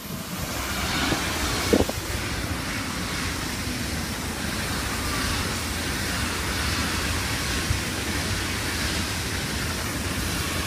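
Train passing close by on the line: the noise builds over the first second or so, then holds steady, with a brief sharp sound about two seconds in.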